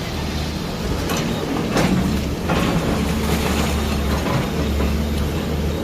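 A heavy diesel machine running steadily, with metallic clanks and rattles over the engine hum, as from a demolition excavator at work.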